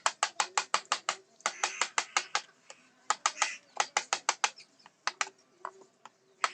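Wood-carving chisel being struck with a mallet to cut teak: sharp taps in quick runs of about five or six a second, broken by short pauses, with a brief scraping hiss from the blade now and then.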